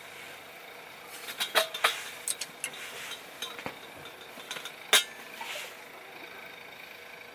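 An irregular run of sharp knocks and clinks of hard objects, the loudest a single knock about five seconds in.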